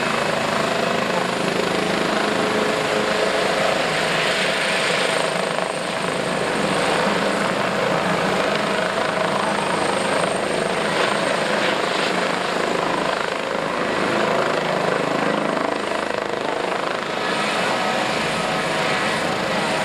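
Airbus H145M military helicopter in flight, its rotor and twin turbine engines giving a steady, loud noise that swells and eases a little as it manoeuvres.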